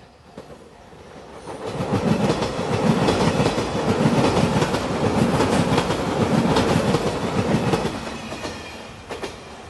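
JR Shikoku 8000 series limited express electric train passing close by, its wheels clattering over the rail joints. The noise builds about two seconds in and dies away after about eight seconds.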